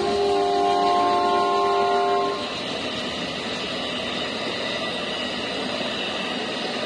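Amtrak Auto Train passing at speed: the locomotive's horn holds a multi-note chord that cuts off about two seconds in, leaving the steady rush and rumble of the bilevel passenger cars going by.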